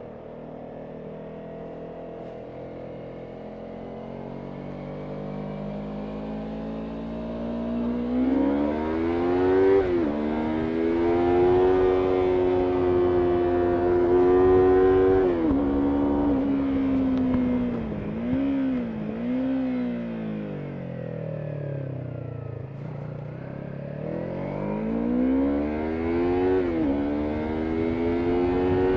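Yamaha MT-03 motorcycle engine pulling uphill, revs rising and falling with throttle and gear changes, easing off about two thirds of the way through and then climbing again near the end. A low rush of wind noise runs underneath.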